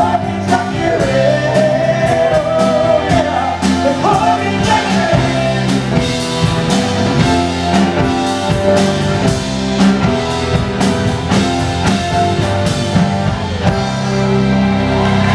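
Live rock band playing with drum kit, guitar and a wavering sung or lead line over the chords. About 14 seconds in, the drums stop and a held closing chord rings out.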